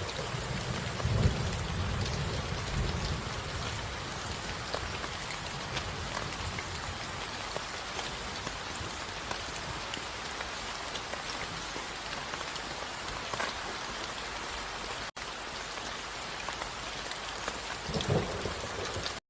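Steady rain falling on a hard surface, with low rumbles of thunder about a second in and again near the end. The sound cuts out for an instant about fifteen seconds in.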